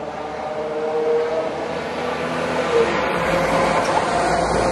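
Class 172 Turbostar diesel multiple unit approaching and passing close. Its engine hum grows steadily louder, and a deep rumble of wheels on rail joins it about three seconds in.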